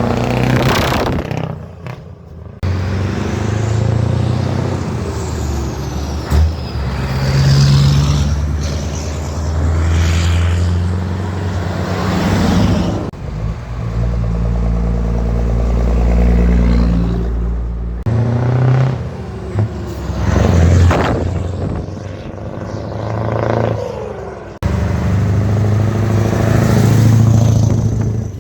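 Scania V8 truck engines driving past in a run of short clips, the deep engine note rising and falling as each truck accelerates and goes by, with abrupt changes between clips.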